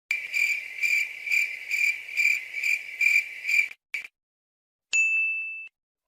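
Cricket chirping sound effect: a steady high chirp pulsing a little over twice a second for nearly four seconds, then cutting off. About a second later comes a single high ding.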